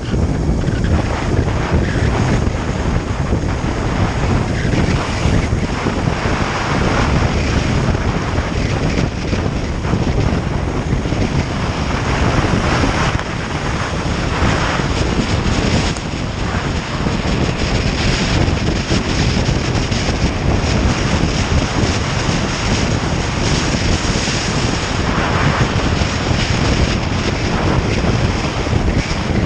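Wind rushing and buffeting over the microphone of a motorcycle on the move, with the bike's road noise underneath, easing slightly about 13 and 16 seconds in.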